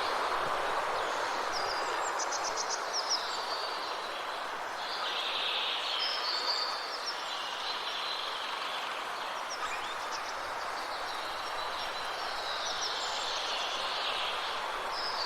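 Forest ambience: a steady rushing background noise with songbirds chirping over it. There is a quick run of repeated high notes about two seconds in, and more short calls near the middle and end.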